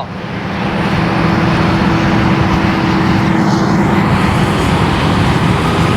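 Steady, loud drone of running farm machinery engines, a low hum with an even noisy haze over it.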